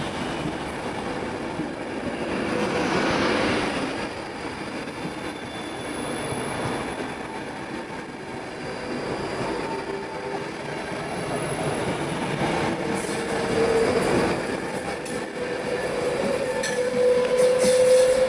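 Class 390 Pendolino electric train moving through the station, its carriages rumbling past on the rails. A whine rises slowly in pitch and grows louder over the last few seconds, with a few sharp clicks from the wheels near the end.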